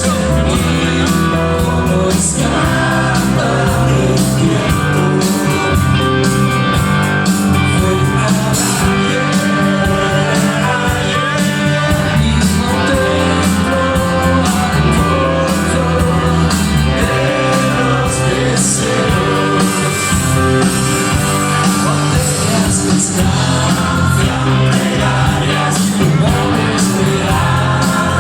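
Rock song with a sung lead vocal over a full band, playing loud and without a break.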